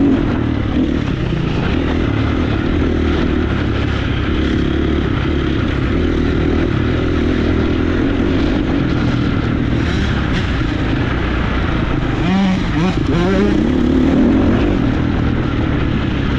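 Motocross bike engine running hard on track, its note rising and falling with the throttle, with a quick run of revs up and down about twelve seconds in.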